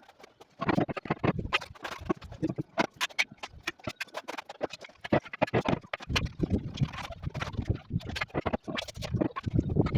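Irregular knocks and taps of hard objects, the sounds of work on marble pieces during fireplace assembly, with a low rumble joining in from about six seconds in.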